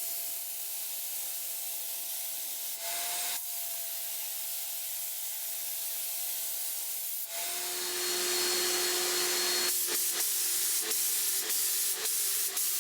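Electric sander running on wood: a steady motor hum under the hiss of the sanding. About seven seconds in the hum drops in pitch and the sanding gets louder, with a series of quick knocks near the end.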